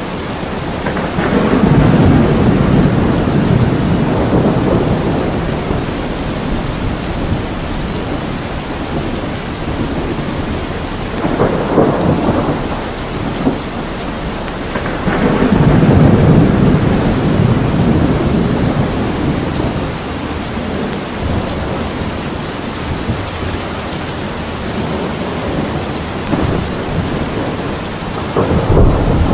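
Heavy rain falling steadily, with rolls of thunder rumbling in about four times: about a second in, around eleven seconds, around fifteen seconds and again near the end.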